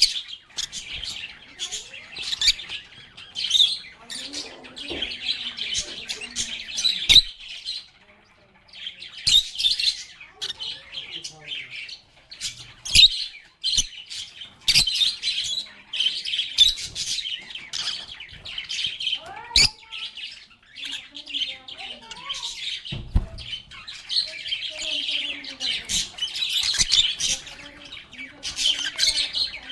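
A flock of lovebirds (Agapornis) chattering with rapid high chirps and squeaks, with sharp clicks scattered through. The chatter drops off briefly about eight seconds in, then picks up again.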